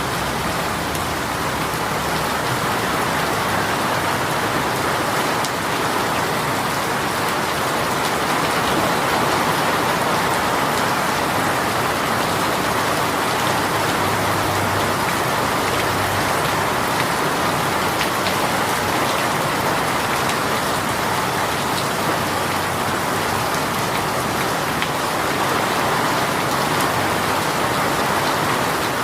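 A rain shower falling steadily: an even, dense hiss of rain on surfaces.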